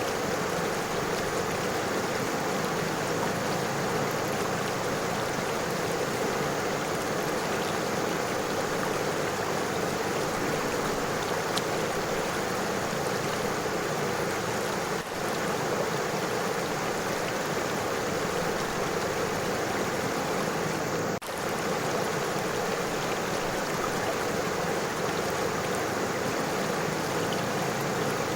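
River water running over stones, a steady, unbroken rush and babble. It dips for an instant twice, about halfway and two-thirds of the way in.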